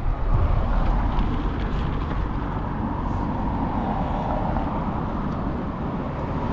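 Steady traffic and road noise heard from a moving bicycle, with a low rumble from wind on the microphone.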